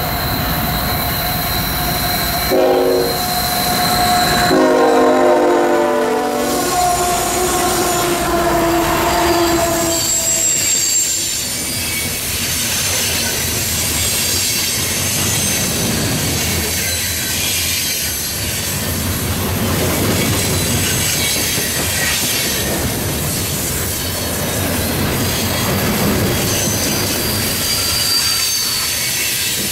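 Lead GE ET44AH locomotive of a loaded CSX coal train sounding its Nathan K5HL five-chime horn in several blasts; the last one drops in pitch and fades as the locomotive passes. Then the loaded coal hoppers roll by with a steady rumble, clickety-clack of the wheels over the rail joints, and thin high wheel squeals.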